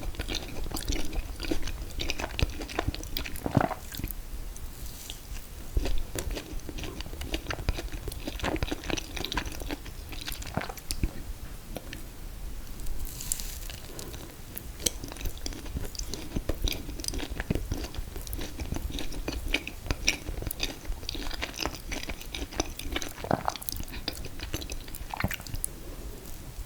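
Close-up chewing and biting of a mint chocolate chip ice cream cake with confetti cake layers, full of irregular wet mouth clicks.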